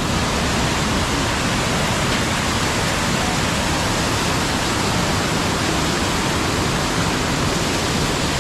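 Waterfall rushing close by: a loud, steady wash of falling water with no breaks.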